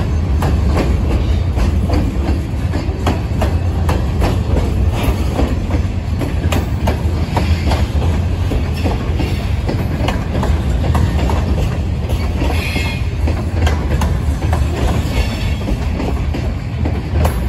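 Freight train covered hopper cars rolling past close by: a steady low rumble of steel wheels on the rails, with repeated clicks as the wheels cross the rail joints. A brief high-pitched squeal from the wheels comes about two-thirds of the way through.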